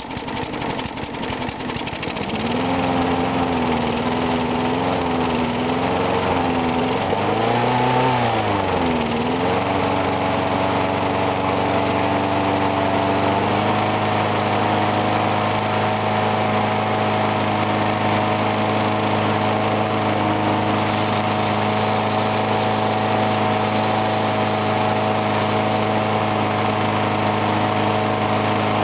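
Briggs & Stratton 4 hp lawn mower engine running after a cold start, its speed wavering up and down for several seconds before settling into a steady run, a little faster from about a third of the way in.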